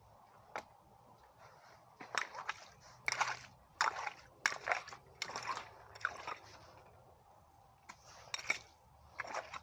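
Water and wet mud splashing and sloshing in a series of short scoops, about one every second, as a small woodland spring is dug out and cleared of rocks.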